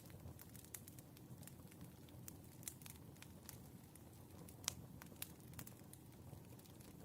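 Burning firewood crackling softly, with scattered sharp pops over a low, steady rumble; one pop about two-thirds of the way in is louder than the rest.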